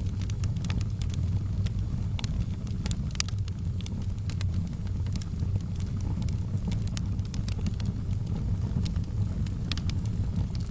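Fire burning in a fireplace: a steady low rumble of flames with scattered, irregular sharp crackles and pops.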